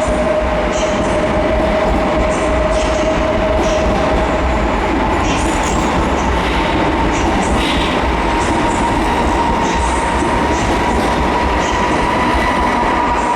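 PESA Dart ED161 electric multiple unit running on the track, a loud steady rumble carrying an electric whine. The whine jumps higher about four seconds in and then slowly rises in pitch, with light clicks from the wheels over the rails.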